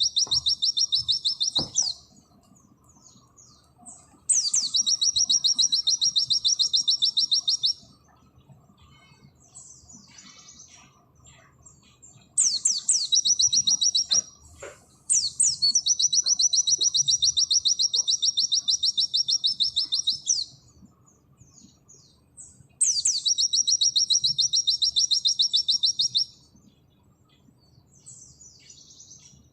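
White-eye (pleci) singing in its rapid 'nembak' style: five loud bouts of very fast, high repeated notes, each lasting two to five seconds, with soft calls and chips in the gaps.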